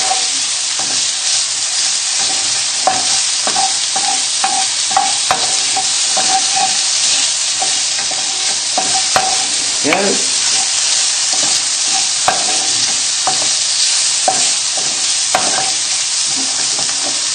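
Chopped bacon, shallots and garlic sizzling steadily in a non-stick wok, with a spatula scraping and clicking against the pan at irregular intervals as the food is stirred off the bottom where it is sticking.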